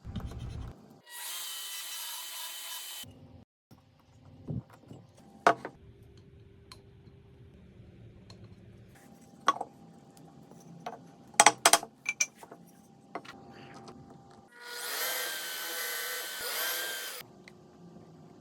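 A power tool runs on wood in two bursts of about two seconds each, one near the start and one near the end, each a steady whining buzz. Between them come scattered sharp knocks and clicks of wood being handled, with a quick cluster of loud taps in the middle.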